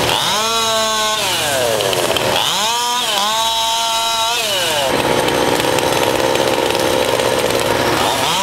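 Chainsaw revving up and back down twice, then a steadier, rougher running from about five seconds in.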